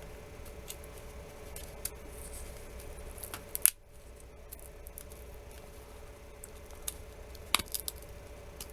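Scattered clicks and ticks of a prying tool working under a phone's glued-in screen to lift it from the frame, the sharpest about three and a half seconds in and a few more near the end, over a faint steady hum.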